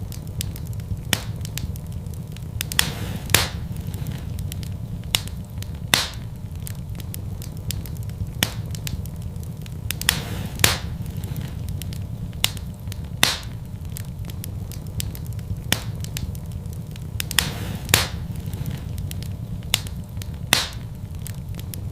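Fire burning in a fireplace: a steady low rumble of flames with irregular sharp crackles and pops every second or two, the loudest about three seconds in and near the end.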